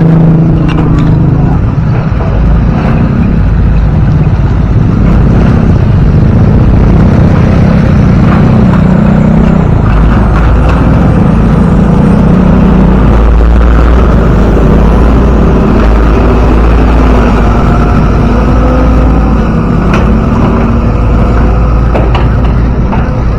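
Motor vehicle engine running with its pitch rising and falling, over a heavy low rumble.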